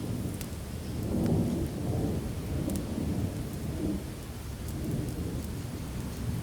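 Rolling thunder rumbling low under steady rain, swelling about a second in and easing off, with scattered faint sharp crackles over it.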